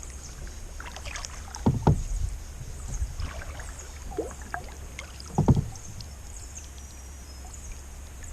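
Kayak paddle strokes in calm water: two louder splashing strokes about 1.8 and 5.5 seconds in, with lighter dribbles and paddle sounds between them.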